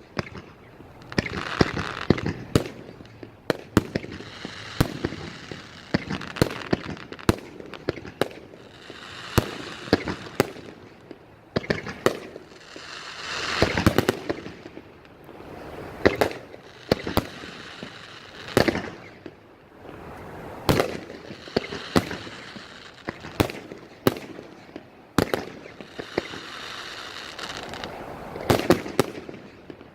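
Aerial fireworks shells bursting one after another: sharp bangs every second or so, with a quick cluster of bangs near the end.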